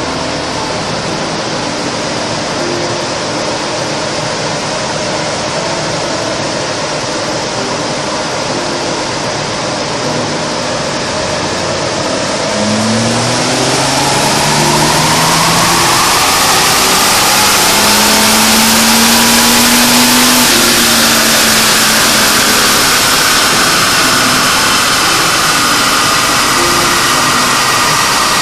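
Ford Granada 2.8 V6 engine running on a rolling-road dyno, over the steady roar of the rollers and tyres. About 12 s in the revs climb and keep rising steadily under load in a power run, then ease back down near 21 s.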